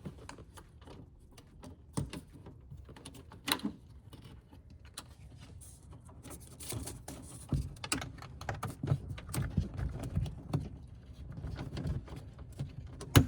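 Hands working a van's plastic inner door panel and door-latch cable: scattered small clicks, knocks and rustling, with a sharp click near the end.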